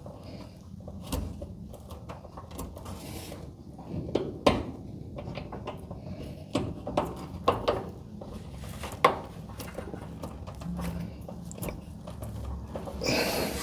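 Scattered clicks, knocks and clinks of metal garage-door hinge hardware being handled and fitted, over a low steady hum.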